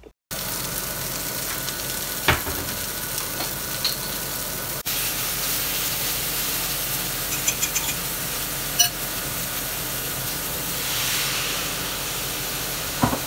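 Beef and broccoli sizzling steadily in a hot frying pan as they are stir-fried, with a few sharp knocks of the spatula against the pan.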